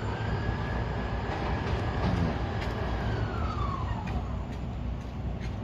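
A siren wailing once: its pitch rises, holds steady for a few seconds, then falls away about four seconds in, over a steady low vehicle rumble.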